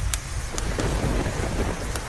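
Steady rain with a rumble of thunder that swells about half a second in and fades near the end, over a crackling log fire that gives a sharp pop or two near the start.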